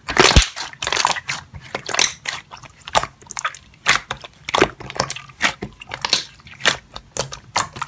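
Slime being squished and poked, giving a string of irregular crackling, popping clicks.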